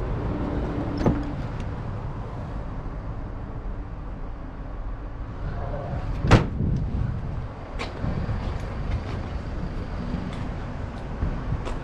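Steady low rumble of a motor vehicle on the move, with a few scattered clicks and one sharp knock about six seconds in, the loudest moment.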